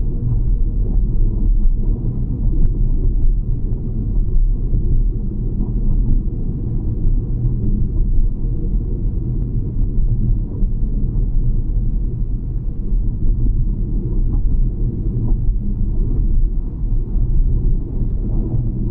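Steady low rumble of a car driving along a road, with engine and tyre noise holding even throughout.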